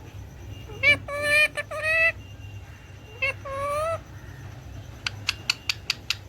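A pet parrot calling in short nasal, talk-like bursts with gliding pitch, three in quick succession about a second in and one more near the middle. About five seconds in a rapid, even run of sharp clicks starts, about five a second.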